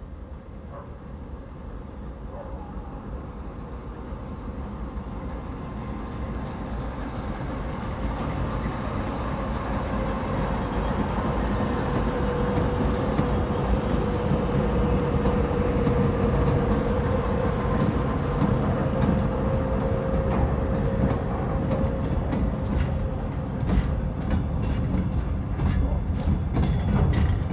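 A 2TE116 twin-section diesel locomotive hauls a freight train, coming closer and growing steadily louder. Its engine drone carries a steady whining tone. In the last few seconds, rapid sharp clicks of the wheels over the rail joints join in.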